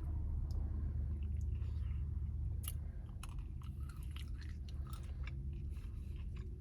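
Chewing and small mouth sounds of someone eating a soft-serve Blizzard with chocolate pieces, with scattered short clicks. A steady low hum runs underneath.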